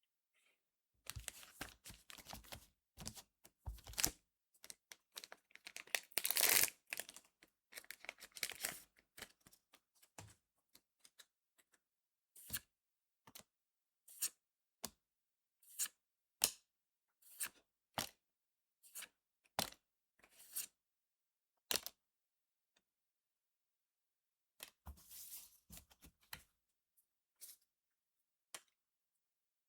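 A trading-card booster pack's foil wrapper being torn open and crinkled. Then comes a run of single sharp card snaps, one after another about every 0.7 s. Near the end the wrapper crinkles again briefly.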